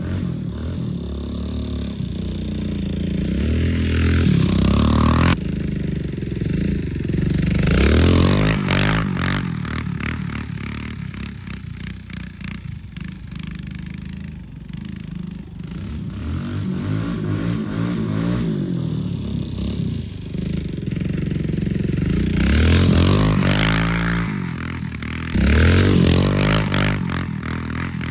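Kawasaki KLX dirt bike's single-cylinder four-stroke engine revving up and down as the bike is ridden around, growing louder several times as it comes close. The bike is being test-ridden to see how it runs after tuning.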